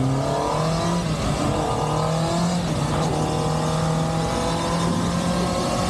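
Kawasaki ZX-10R's inline-four engine in a full-throttle dyno pull. Its pitch climbs steadily, drops sharply about three seconds in at an upshift, then climbs again.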